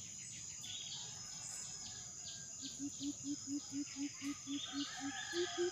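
A coucal gives a series of deep, even hoots, about four a second, starting about halfway through and stepping briefly higher near the end. Behind it run a steady high insect drone and scattered bird chirps.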